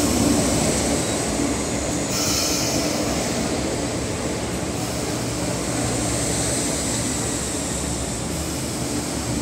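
Metro-Cammell electric multiple unit train running in along the platform as it arrives: a steady rumble of wheels on rail with a low motor hum, getting slowly quieter as it slows. A brief high-pitched hiss comes about two seconds in.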